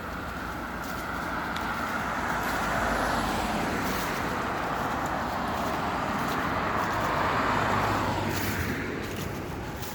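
Passing road traffic: car tyre and engine noise that builds over the first few seconds, holds, and fades away near the end.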